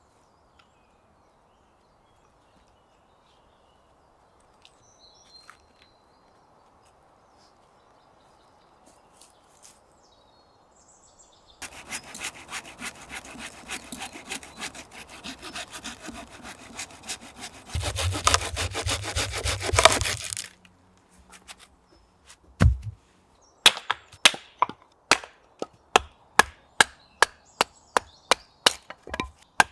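Firewood being sawn by hand: after a quiet stretch, rapid saw strokes through wood run for about nine seconds. After a short pause comes a steady run of sharp wooden knocks, about two a second.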